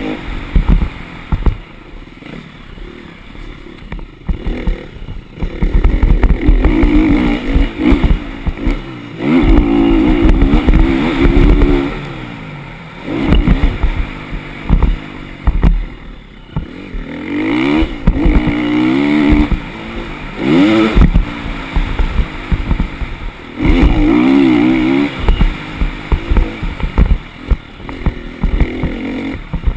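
Motocross dirt bike engine revving hard and backing off again and again, its pitch climbing and dropping with each burst of throttle, over heavy low thuds and rattles.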